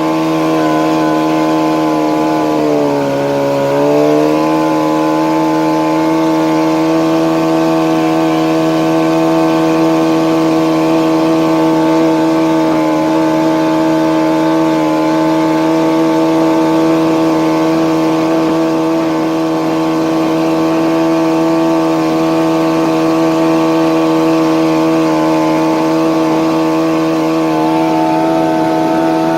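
Yamaha jet-drive outboard motor on a jon boat running at a steady cruising throttle. About three seconds in, the engine speed dips briefly, then it picks back up.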